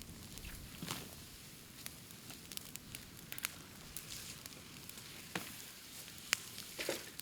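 Bamboo burning on an open bonfire: a steady hiss broken by irregular crackles and sharp pops, the loudest about a second in, past six seconds and just before the end.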